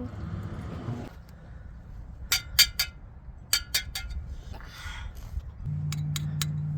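Sharp clinks in three quick groups of three or four, like small hard objects striking each other. Near the end a steady low hum starts.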